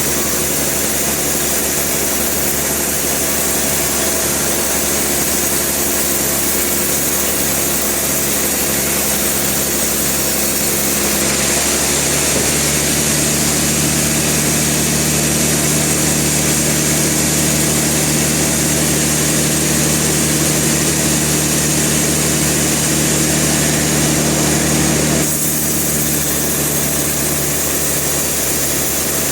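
Sawmill engine running steadily. About 12 seconds in its tone shifts and a higher hiss grows stronger; about 25 seconds in it drops back to the earlier sound.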